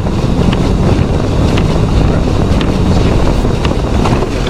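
Heavy wind buffeting the microphone over a vehicle engine running steadily.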